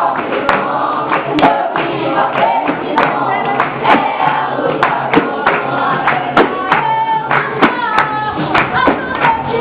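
Capoeira roda music: voices singing together over hand percussion, with a steady beat of sharp strikes.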